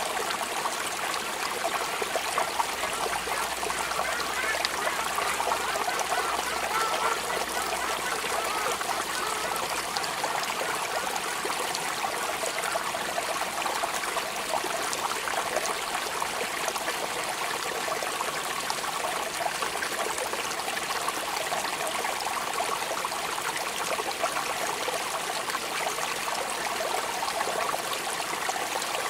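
Steady rain falling without a break, an even hiss made up of many small drop ticks.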